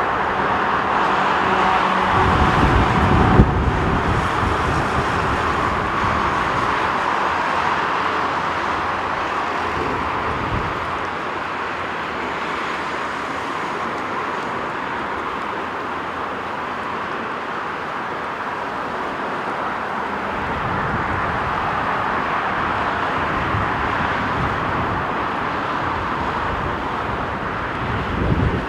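Steady rushing jet-engine noise from a Boeing 787-9 airliner near the runway, swelling and easing slowly. Low wind rumble hits the microphone about two to four seconds in, with a short bump, and again near the end.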